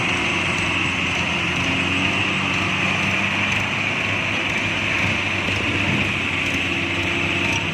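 Tractor engine running steadily at a constant speed, with a strong hissing edge over its low hum.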